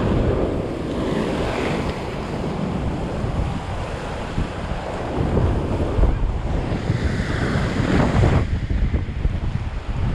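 Storm surf breaking against a seawall, with strong gusting wind buffeting the microphone in a continuous rush that swells and eases.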